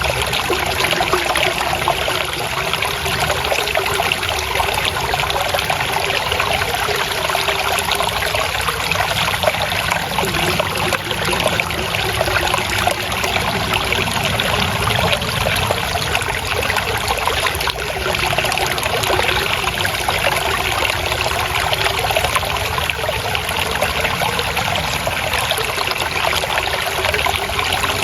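Water flowing and trickling steadily over stones, a continuous splashing burble of a shallow stream.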